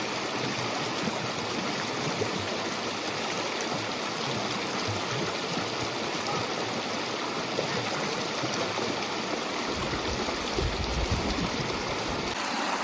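Water rushing steadily through river rapids in high spring flow, an even continuous rush. A low rumble joins for a couple of seconds near the end.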